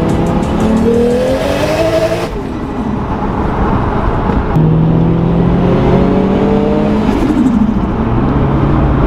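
Racing car engines running hard on a circuit, their note rising as they accelerate, with a sudden change in the sound a little over two seconds in.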